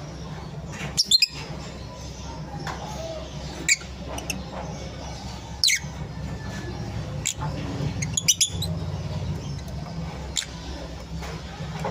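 Pet lovebirds giving short, sharp chirps and squawks, about half a dozen scattered calls, over a steady low hum.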